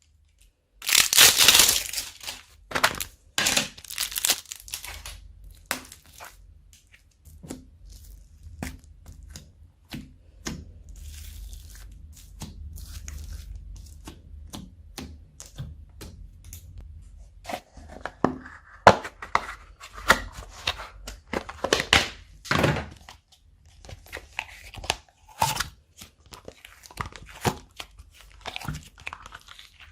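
Hands squeezing, stretching and mixing slime: irregular sticky crackles, clicks and tearing sounds, busiest about a second in and again from about 18 seconds on.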